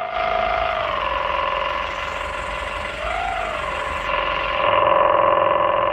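Excavator running while it works, a steady machine whine whose pitch drops slightly about a second in and briefly rises and falls around three seconds in as the machine is put under load.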